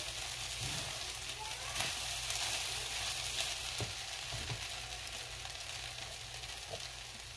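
Quinoa and chickpeas sizzling in a hot frying pan, with a few scrapes and knocks of a wooden spatula stirring through them. The sizzle slowly gets quieter.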